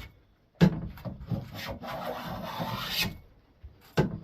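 Hand plane taking one long pass along the edge of a wooden board, a scraping, shaving sound lasting about two and a half seconds, which begins with a knock as the plane meets the wood. A second knock near the end starts the next pass. The edge is being jointed straight for a glued edge joint.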